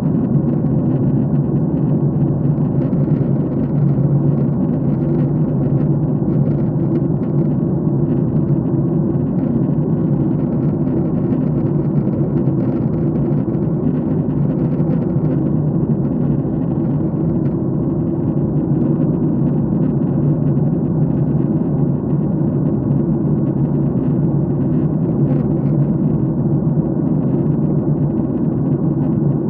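Airliner cabin noise in flight: a steady low drone of engines and airflow, with no change through the stretch.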